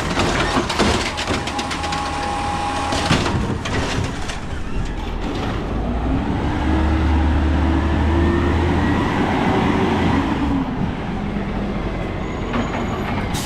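Peterbilt 320 garbage truck with an Amrep Elliptical automated side-loader body at work: metal clanks and knocks during the first few seconds, then the diesel engine revs up for several seconds and drops back to idle.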